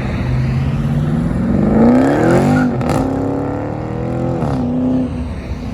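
Car engine accelerating hard, its pitch climbing steeply, dropping at an upshift a little under three seconds in, climbing again through the next gear, then falling as the driver lifts off near the end.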